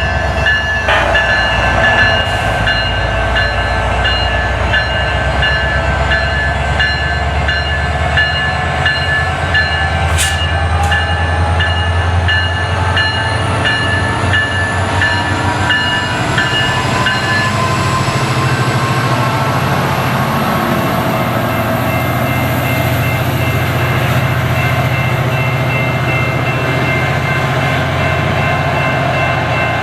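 Diesel train running with a steady, heavy low engine rumble; a faint rising whine builds from about ten seconds in.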